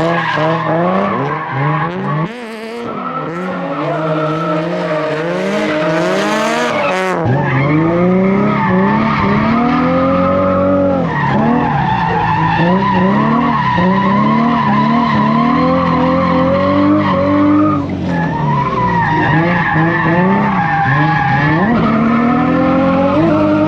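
Drift car's turbocharged Nissan VQ V6 engine revving up and down again and again as the car drifts, with tires squealing and skidding.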